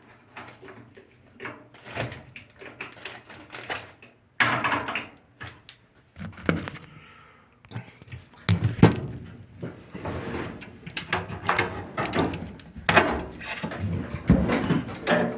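Irregular clunks, knocks and rattles of washing machine cabinet panels and parts being handled.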